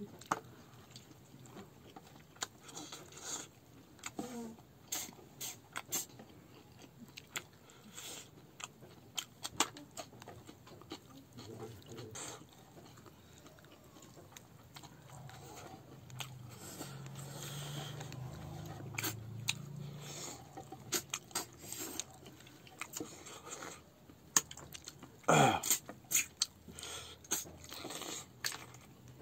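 Close-miked chewing and biting: a person eating rice and meat by hand, with many short wet mouth clicks and smacks. A low hum runs for a few seconds in the middle, and one louder falling-pitched mouth sound comes near the end.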